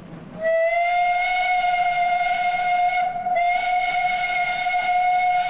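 Steam train whistle blowing one long, steady blast with a hiss of steam, briefly dipping about three seconds in.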